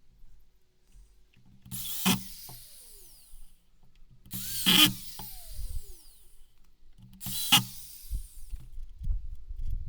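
Power drill run in three short bursts, each ending with a sharp peak and then a falling whine as the motor winds down. Low knocks and handling noise follow near the end.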